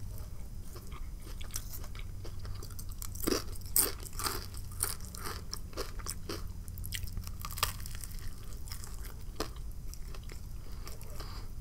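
Close-up chewing and biting of a black bean patty sandwich: soft mouth sounds with scattered small crunches, a few louder crunches around three to four seconds in and again near eight seconds.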